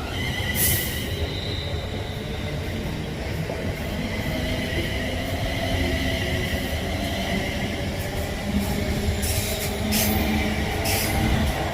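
A train running on the track: a steady rumble with high ringing tones over it, and a few sharp clicks, one about half a second in and several near the end.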